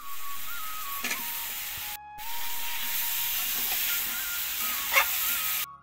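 Vegetables sizzling in hot oil in a metal karahi, with a steel spatula scraping the pan about a second in and again near the end. The sizzle cuts out briefly about two seconds in, and a thin background melody plays throughout.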